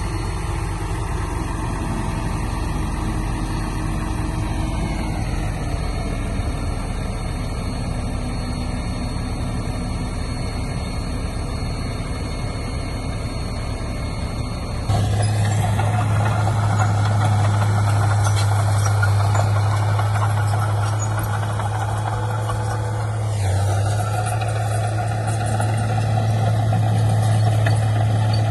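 Heavy diesel engines of earthmoving machinery running steadily. About halfway through the sound jumps louder and a strong low drone takes over.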